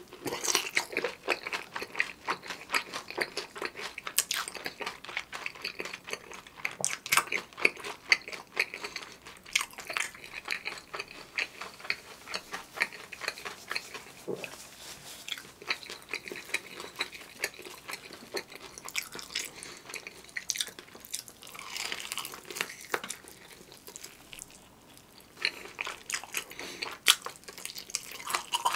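Close-up eating sounds of a bhc Bburinkle fried chicken drumstick: bites into the seasoned, crisp coating and steady chewing, a dense run of small crackles that thins out briefly near the end.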